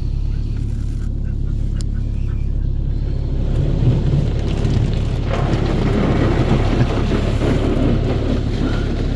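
Automatic car wash heard from inside the car: a steady low rumble throughout, joined about five seconds in by a rushing spray of water against the car's body.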